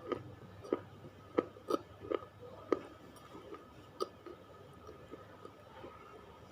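A person biting and chewing crunchy baked clay chips close to the microphone. There are sharp crunches about twice a second for the first four seconds or so, then softer grinding chews.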